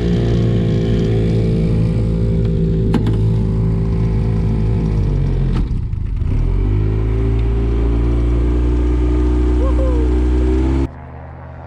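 Boat's outboard motor running under way, its pitch dropping as the throttle eases off about halfway through and then climbing back to a steady run. It cuts off suddenly near the end.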